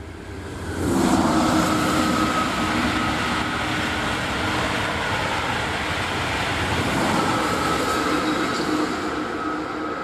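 High-speed electric passenger train passing at speed: a loud rush that swells sharply about a second in and holds, with a steady whine running through it, and begins to die away near the end.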